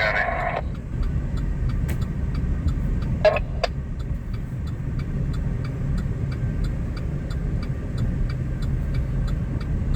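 Steady low rumble inside a vehicle's cab on the road, with the hazard flasher ticking evenly about three times a second.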